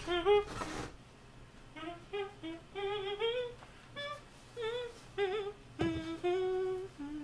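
A person humming a tune in a string of short, wavering notes.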